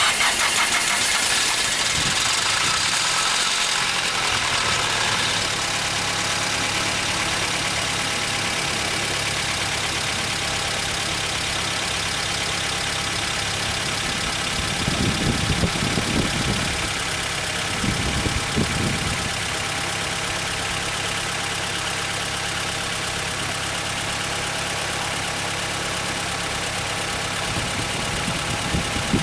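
Nissan FJ20 twin-cam inline-four in a DR30 Skyline RS catching at start-up, running fast at first and settling to a steady idle within the first few seconds. About halfway through there are two short surges in engine sound, a couple of seconds apart.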